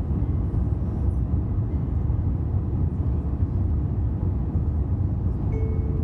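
Steady low rumble of an Airbus A350-900 cabin in descent: airflow and the Rolls-Royce Trent XWB engines heard from a passenger seat.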